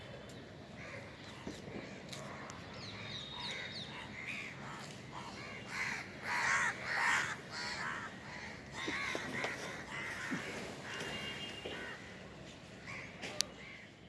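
Crows cawing repeatedly, loudest about halfway through, with smaller birds chirping in the background.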